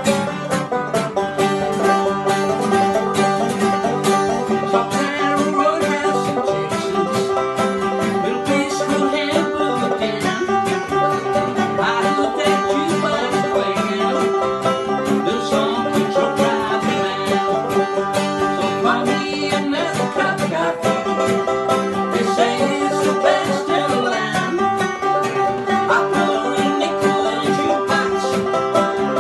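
Acoustic country string-band instrumental: banjo and guitar picking a quick, steady run of plucked notes.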